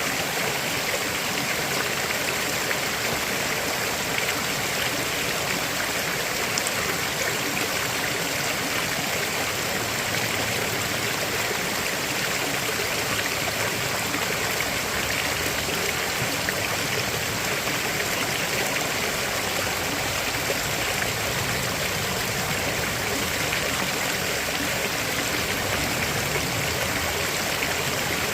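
A river flowing steadily over stones: a constant rushing and babbling of water.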